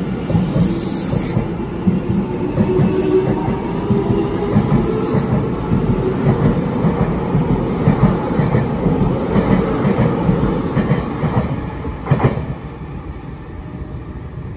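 Nankai 8000-series train coupled with a 12000-series Southern Premium set pulling out and running past, its wheels clattering over rail joints. The running noise drops away sharply about twelve seconds in.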